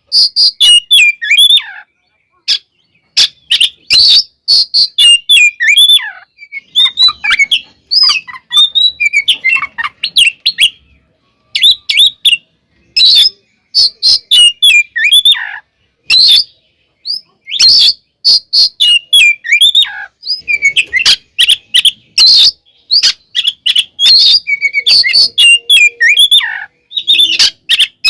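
Oriental magpie-robin (kacer) singing loudly in its fighting mode: rapid strings of varied whistles, trills and harsh notes, broken every few seconds by brief pauses.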